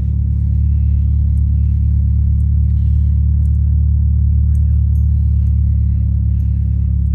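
A car engine running steadily, a loud, even low rumble with no change in speed.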